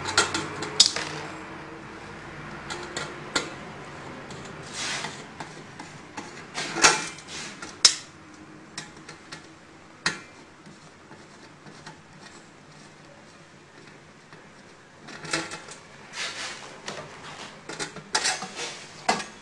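Intermittent clinks, clicks and knocks of metal parts and hand tools being handled as a chocolate fountain's base is taken apart, in scattered clusters with quieter stretches between.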